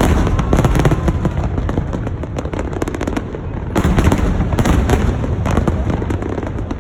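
Aerial fireworks going off in rapid succession, a dense run of booms and crackling reports that grows heavier about four seconds in.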